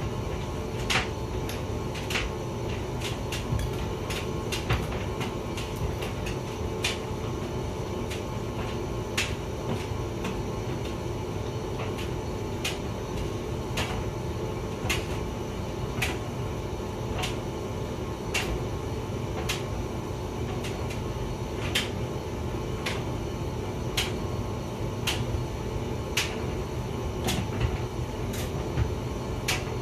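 Hotpoint vented tumble dryer running mid-cycle: a steady low rumble and hum from the turning drum, with irregular light clicks and knocks about once or twice a second as the load tumbles.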